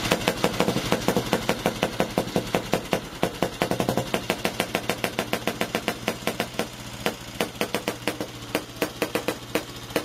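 Böhmerland motorcycle's single-cylinder engine idling at very low revs, each firing stroke a separate bang. The beat slows to about two bangs a second and grows uneven from about seven seconds in.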